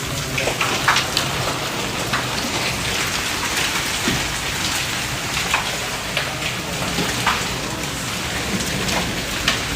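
Steady rain falling on surfaces, with individual drops ticking sharply at irregular moments over the continuous patter.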